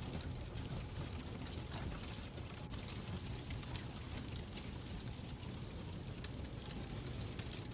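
Fireplace crackling: a steady hiss and low rumble with many small scattered pops and snaps.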